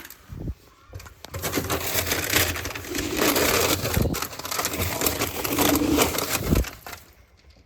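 Scoops of animal feed pellets being dug out and poured, a dense rattling of many small pellets that dies away near the end.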